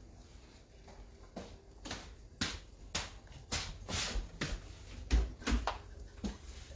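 A series of sharp clicks and light knocks at irregular intervals, a little over one a second, with a couple of dull thumps about five seconds in.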